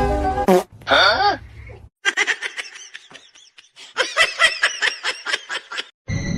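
High-pitched laughter: two runs of quick, short ha-ha pulses, the first about two seconds in and the second, louder, about four seconds in, after a short voiced sound at the start.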